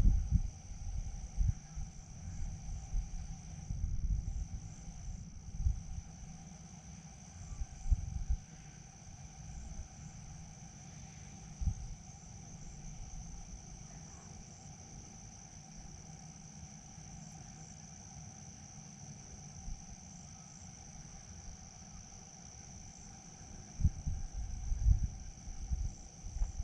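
A steady, high-pitched insect chorus runs throughout, with a fainter, lower steady drone beneath it. Irregular low rumbles and bumps on the microphone come and go and are loudest near the start and near the end.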